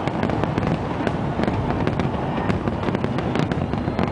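Aerial fireworks going off in rapid succession: many sharp bangs and crackles a second over a continuous low rumble.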